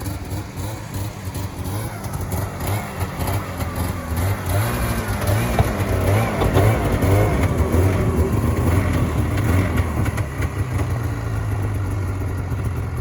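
Yamaha Viking snowmobile engine running, revved up and down several times in the middle before settling to a steadier run.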